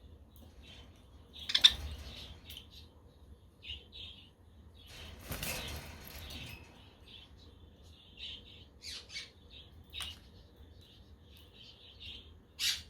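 Budgerigars chirping and chattering, with many short high chirps. There are two sharp, louder calls, one about a second and a half in and one near the end, and a longer rush of noise around the middle.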